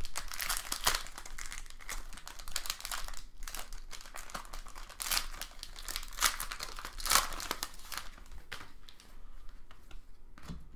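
Foil trading-card pack wrappers crinkling and tearing by hand as packs are opened, in irregular crackles that thin out near the end.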